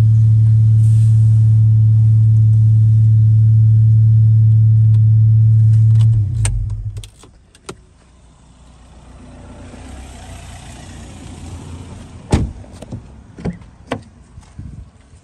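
VW Golf R's 2.0-litre turbocharged four-cylinder, fitted with an aftermarket cat-back exhaust, idling with a steady drone heard from inside the cabin, until it is switched off about six seconds in and the drone dies away. A few clicks follow, then a single loud knock about twelve seconds in, with lighter knocks after it.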